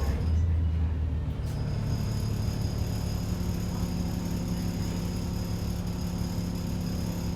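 Inside an ADL Enviro 400 double-decker bus: the diesel engine running with a steady low hum. A high-pitched whine drops out for the first second and a half and comes back with a click.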